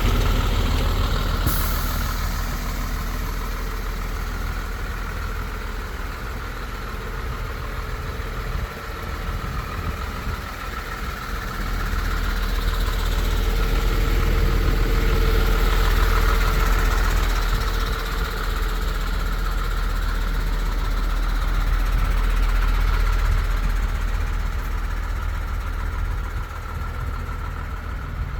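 MAN TGM 18.250 truck's six-cylinder diesel engine idling steadily, growing louder for a while midway and then easing back.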